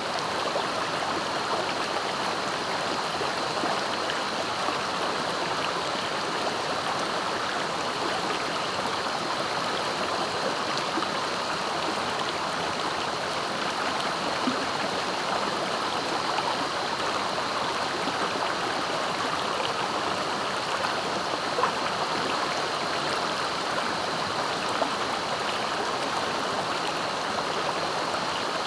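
A clear, fast-flowing river rushing steadily over rocks, a continuous splashing and gurgling of water.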